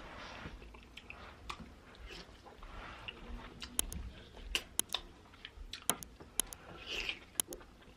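Close-miked eating of seafood boil: wet chewing and biting, with a run of sharp crackling clicks from about halfway through.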